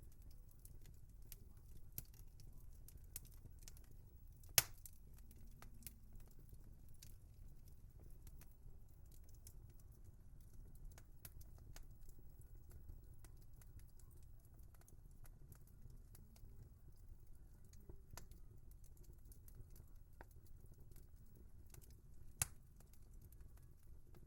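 Wood fire crackling softly: scattered small pops and snaps over a low steady rumble, with two sharper, louder pops, one about five seconds in and one near the end.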